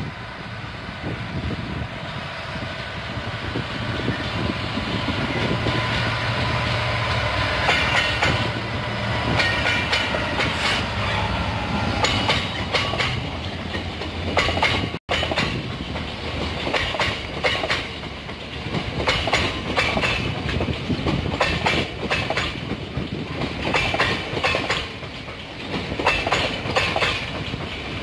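A diesel freight locomotive running past with a steady engine drone and humming note. About halfway through, a long rake of covered hopper wagons takes over, their wheels clacking repeatedly over the rail joints and points.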